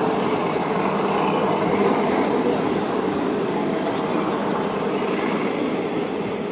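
Passenger train coaches rolling past as the train pulls out of the station: a steady, loud noise of wheels on the rails that eases slightly near the end.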